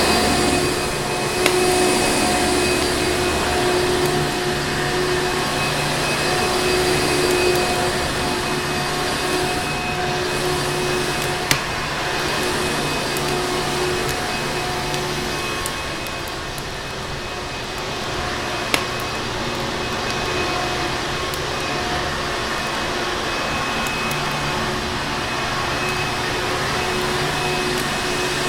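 Vacuum cleaner running steadily with a constant hum and whine, joined by a few single sharp clicks.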